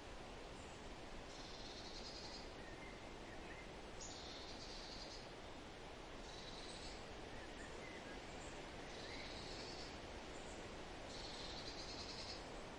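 Forest ambience with a bird repeating a short, high song phrase about every two and a half seconds, with fainter, lower chirps between, over a steady hiss.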